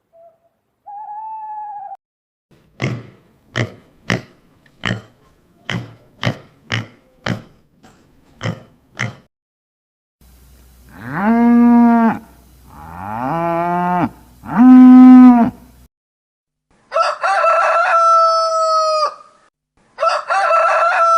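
A run of different animal calls: a brief pitched hoot, about ten short sharp notes, then three long drawn-out calls that bend in pitch and are the loudest. Near the end a rooster crows twice, each crow about two seconds long.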